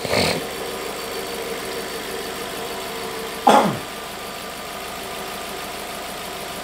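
Volkswagen Fox engine idling steadily and smoothly on freshly fitted spark plugs. Two short sounds that fall quickly in pitch break in, one at the start and one about three and a half seconds in.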